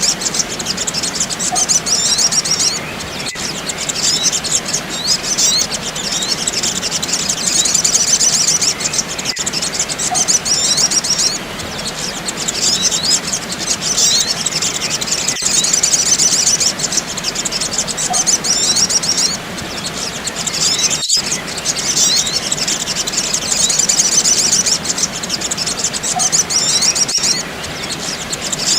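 Looped lure recording of sogok ontong (spiderhunter) calls: rapid, dense high-pitched chirping that repeats about every six seconds, with a faint tick at each loop join and a brief dropout about 21 seconds in.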